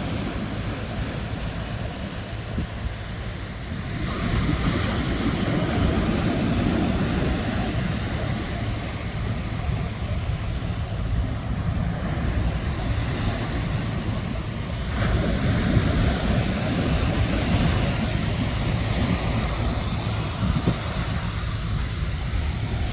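Sea waves breaking and washing on the shore, a continuous rushing surf that swells louder twice, with wind rumbling on the microphone.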